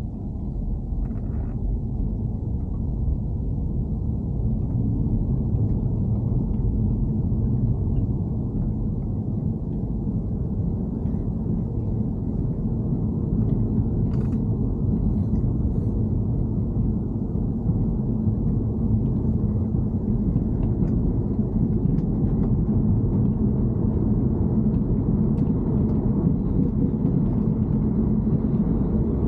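Car running, most likely a BMW E90 3 Series: a steady low rumble with a faint steady hum and a few light ticks, growing slightly louder over the first few seconds.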